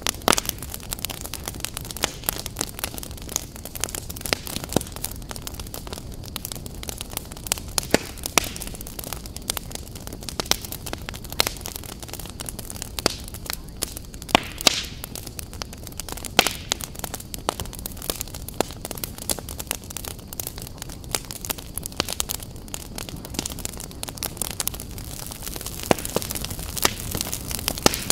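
Fire crackling: a steady low rumble of flames with frequent sharp, irregular pops and snaps.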